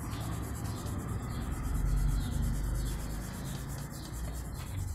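Wooden coloured pencil rubbing on paper, shading in an area with steady strokes.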